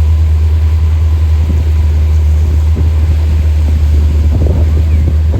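Steady low rumble of a boat's motor running, mixed with wind buffeting the microphone. It drops off abruptly at the very end.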